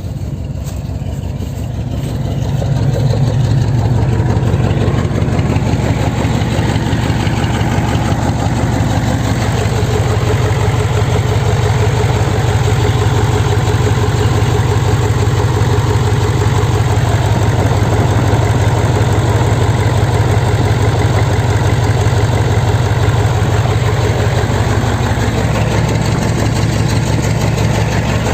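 Mercedes-Benz OM 402 12.8-litre V8 diesel engine running just after a start, growing louder over the first few seconds and then running steadily at idle with its oil pressure up.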